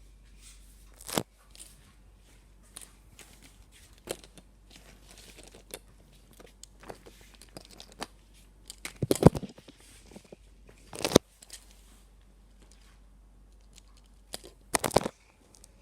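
Handling noises: scattered light rustling and crinkling, broken by a few sharp clacks, the loudest about a second in, near the middle, a little later and near the end.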